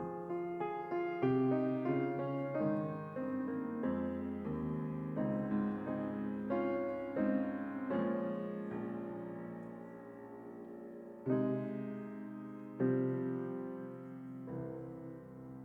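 Solo piano music, slow and gentle. Chords are struck and left to ring and fade, with two stronger chords about two-thirds of the way through.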